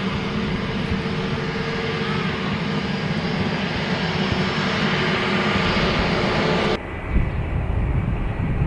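Jet airliner engines running: a steady, loud rush of engine noise with a whining tone in it. About seven seconds in it changes abruptly to a duller low rumble.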